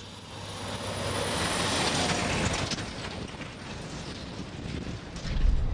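Road train truck driving past: engine and tyre noise swells to a peak about two seconds in and eases off, with a deep rumble that rises again near the end.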